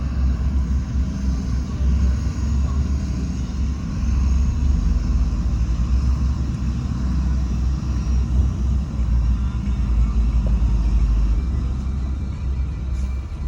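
Heavy diesel earthmoving machinery running steadily: a deep, continuous rumble with no clear revs or breaks.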